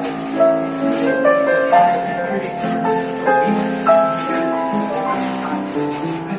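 Live jazz band playing: piano chords and melody over a light, steady beat.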